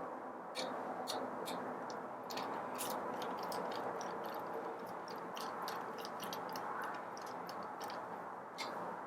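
Scattered sharp metallic clicks and ticks of a hand tool working the small screws on a coffee grinder's gearbox casting as they are loosened, over a steady low hiss.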